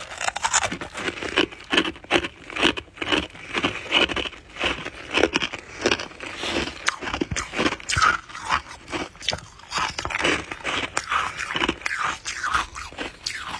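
Close-miked biting and chewing of soft white ice (freezer frost), a continuous run of crisp, irregular crunches.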